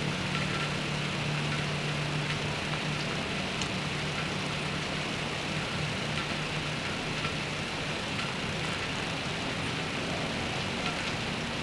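Steady rain with traffic: an even wash of rain noise under a low engine hum, which fades out about halfway through.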